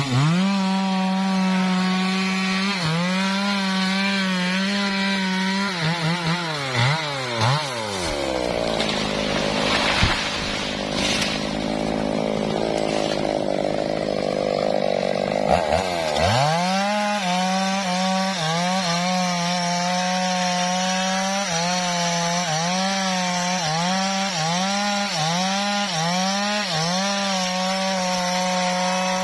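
Two-stroke chainsaw cutting into a teak trunk, the engine note dipping again and again as it bogs under load. About eight seconds in the revs fall away, there is a sharp crack a little later, and around sixteen seconds it revs back up and resumes cutting with the same repeated dips.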